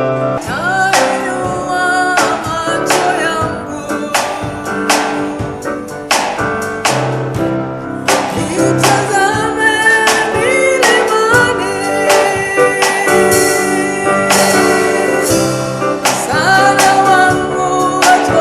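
Gospel worship song performed live: singing over guitar and keyboard, with a steady beat about once a second.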